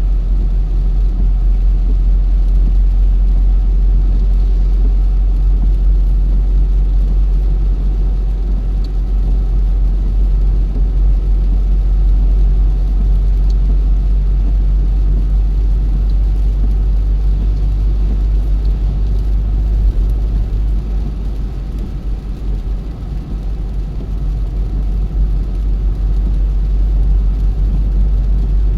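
A car driving along the road: a steady low rumble of engine and road noise. It eases off a little about three quarters of the way through, then comes back up.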